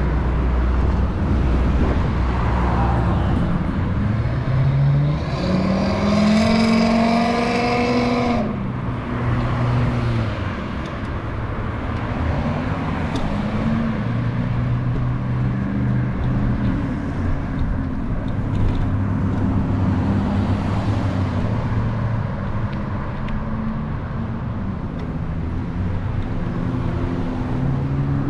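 Motor vehicle engines passing on a nearby road. One vehicle accelerates with a rising engine pitch from about four seconds in, then cuts off sharply about eight seconds in. Other engines hum along underneath.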